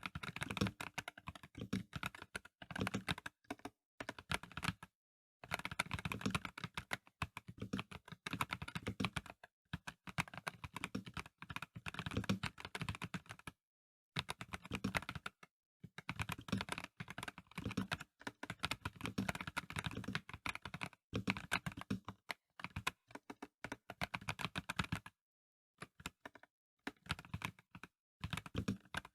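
Typing on a Dareu A98 Pro mechanical keyboard with non-clicky VioletGold Pro switches: fast runs of keystrokes broken by a few short pauses.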